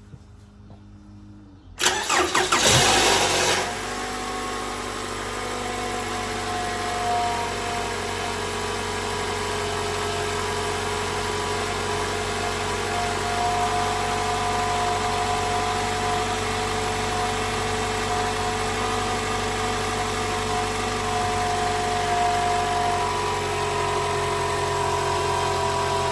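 Toyota 2AR-FE 2.5-litre four-cylinder engine started from cold, with a loud rattle for the first couple of seconds of running, then settling into a steady idle. The bad cold-start rattle comes from the VVT-i intake cam gear, whose internal spring is being replaced.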